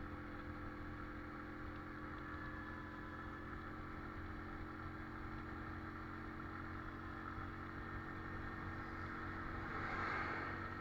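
Motorcycle engine running faintly at a steady speed, with a brief swell near the end.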